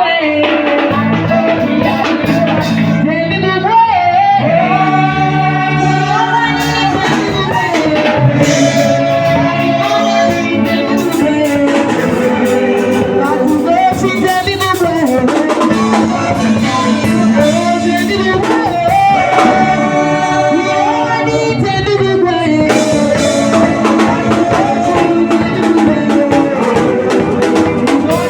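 Live church worship music: a sung gospel song with drum kit and other instruments.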